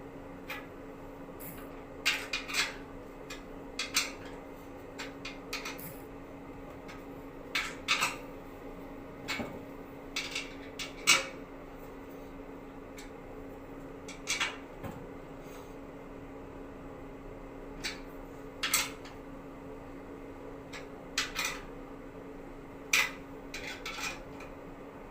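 Irregular metallic clinks and taps of tools and fittings as an aircraft fuel booster pump is mounted on its test rig, over a steady hum.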